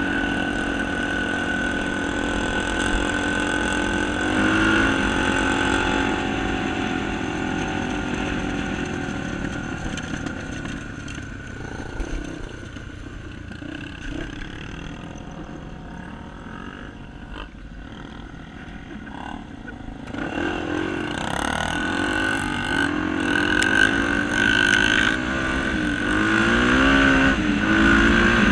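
Honda Tornado single-cylinder trail motorcycles running in mud, the engines revving up and down. They die back for a while in the middle, then come in louder again about two thirds of the way through with uneven rising and falling revs.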